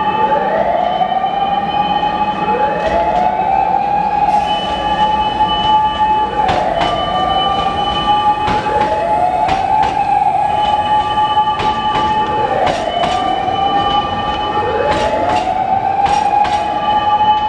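Hankyu electric train running through the station tracks. A steady high squeal mixes with a rising whine that repeats about every two seconds, and wheels click sharply over rail joints.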